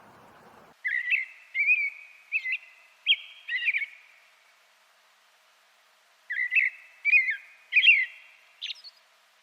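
A songbird singing two phrases of clear whistled notes, the first starting about a second in and the second about six seconds in, with a pause between them. A faint hiss cuts off just before the song starts.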